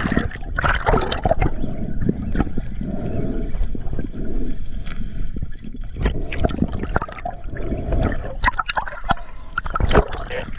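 Water rushing and gurgling around an underwater camera, with scattered knocks and clunks, as a spearfisher is dragged through the water by a speared wahoo running out his reel line.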